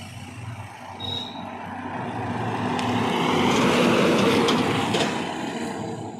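Heavy truck driving past at speed. The engine and tyre noise swells to a peak about four seconds in and then fades as it goes by.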